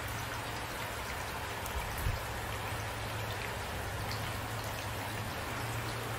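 Steady rain falling, with scattered individual drops ticking on a surface and a brief low thump about two seconds in.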